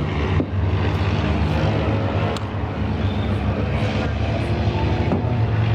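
A field of claimer race cars running together at steady, low engine speed, a continuous drone of several engines.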